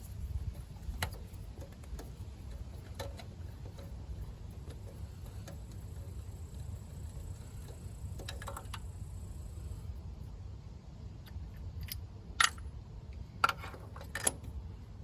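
Metal hand tools clicking and clinking during a spark plug change, with scattered light clicks and then three sharp metallic clinks near the end, over a steady low hum.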